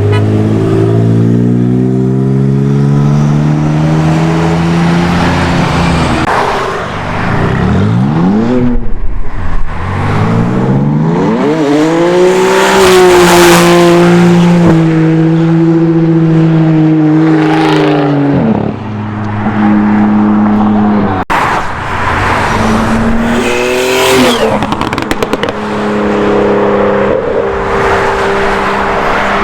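Supercar engines revving and accelerating hard, the pitch sweeping up sharply several times, with one long stretch held at high revs in the middle.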